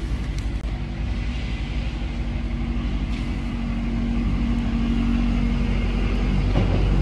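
Box truck engine running, a steady low rumble with a held hum that grows slowly louder.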